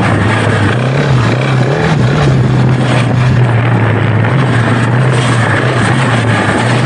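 Single-cylinder engine of a KTM 690 Enduro R motorcycle running steadily under way, its pitch lifting briefly a couple of seconds in, over a steady rush of noise.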